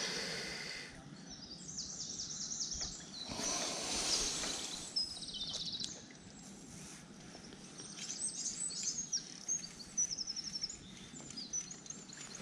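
Small songbirds singing: short, high-pitched, rapidly repeated chirping phrases, with a brief rush of noise about three and a half seconds in.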